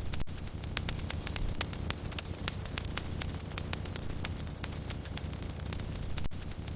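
Wood fire crackling in a fireplace: many sharp pops and snaps, several a second at irregular intervals, over a steady low rumble and hiss of burning logs.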